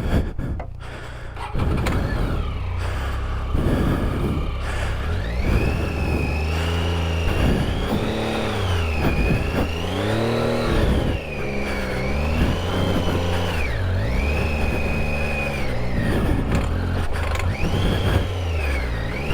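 Triumph Tiger 800 XCa motorcycle's three-cylinder engine revving up and dropping back over and over, about every couple of seconds, under constant throttle changes off-road. A high whine rises and falls with the revs.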